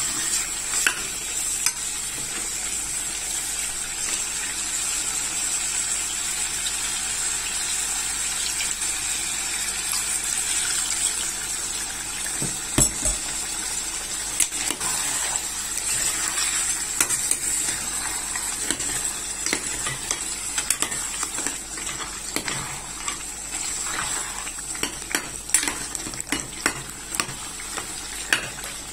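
Egusi soup with meat sizzling in a pot over a gas flame, while a spoon stirs it and scrapes and knocks against the pot. The knocks and scrapes come more often near the end.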